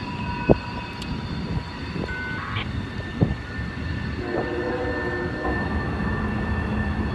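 Distant freight train locomotive sounding its horn once, for about a second, a little past the middle, over a steady low rumble of the passing train.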